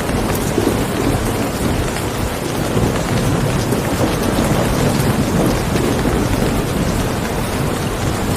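Steady heavy rain, with low thunder rumbling beneath it that swells and eases a few times.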